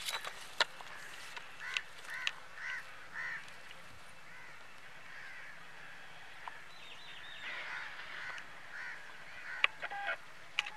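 Birds calling over and over in short arched calls, in two runs. A few sharp knocks come through, the loudest near the start and near the end.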